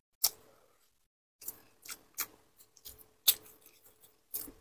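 Close-miked mouth sounds of a person eating: a string of short, sharp wet clicks and smacks, the loudest a moment after the start and again just past three seconds in.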